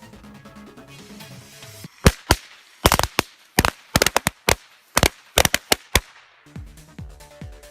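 A string of firecrackers going off: about twenty sharp, irregular bangs over some four seconds, starting about two seconds in. Background music plays before and after the bangs.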